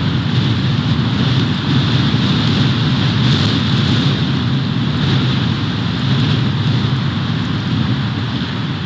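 Snowstorm wind blowing across the nest camera's microphone: a loud, steady rushing noise with a deep rumble underneath.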